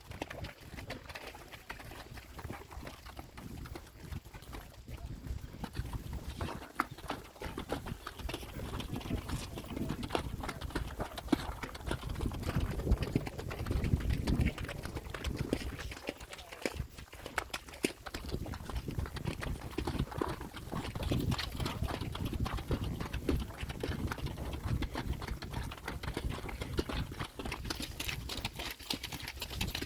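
Horses' hooves clopping steadily on the ground during a ride, an irregular stream of knocks that grows louder for a while near the middle.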